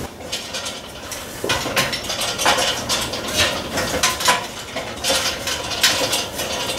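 Irregular clattering and knocks as a man climbs a ladder and handles his tools and gear, with sharp metallic clinks among the knocks and no steady running tool.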